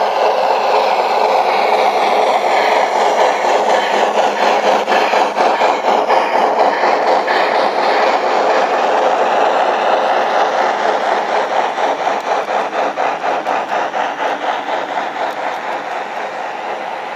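HO-scale model freight train rolling past on a layout, its wheels running with a steady rumble and rapid clickety-clack over the rail joints, fading in the last few seconds as it moves away.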